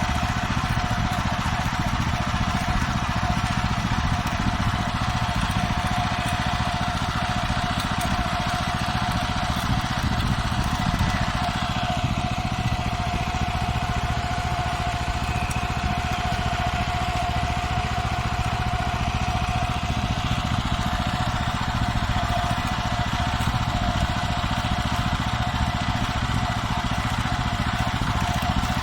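Farmer 1511 walk-behind tractor engine running steadily while the machine is driven, with a constant high whine over the engine note and no change in speed.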